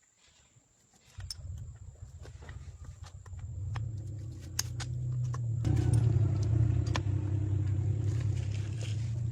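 Car engine running with a low, steady rumble that comes in about a second in, grows louder, and jumps up sharply a little past the middle. Scattered light clicks and knocks sound over it.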